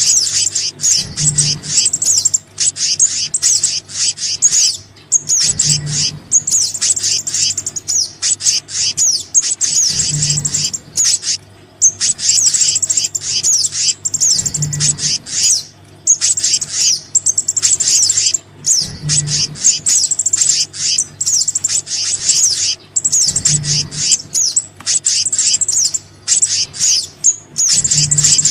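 Bird-lure recording of small songbirds, the ones called sogon and kehicap: dense, rapid, high chirping and twittering without a break. Under it a low thud recurs about every four and a half seconds.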